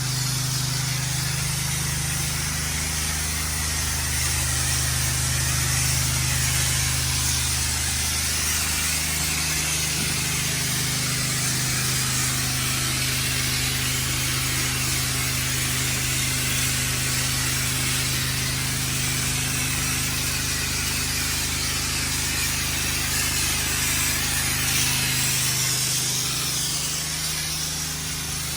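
Pressure washer running steadily, its low hum slightly shifting pitch a few times, under a broad hiss of water rushing out through an open ball valve to rinse the surface.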